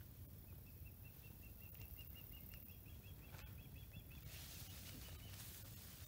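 A faint bird call: a fast, even run of short high notes, about eight a second, lasting nearly four seconds. A steady low rumble sits underneath.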